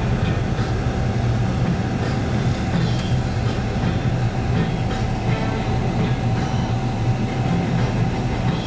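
Steady low rumble of a car driving, heard from inside the cabin: engine and tyre noise on a snow- and ice-covered road.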